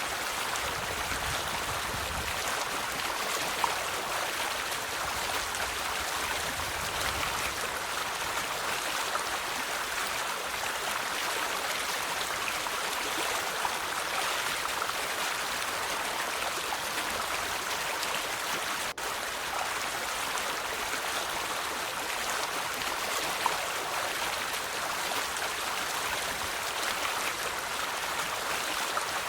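River water flowing: a steady rushing babble, with a few brief louder splashes and one momentary dropout about two-thirds of the way through.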